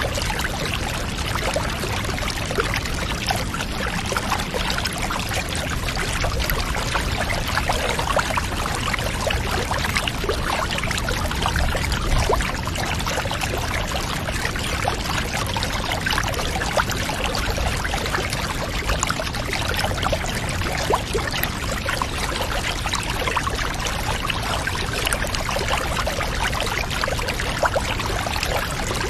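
Water running steadily into a bathtub: a constant pouring trickle with many small drips and splashes.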